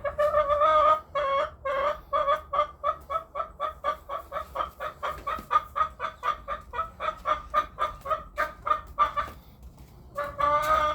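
Pet hen clucking: a few longer notes, then a long, rapid run of short clucks at about four a second, a pause, and a drawn-out call near the end.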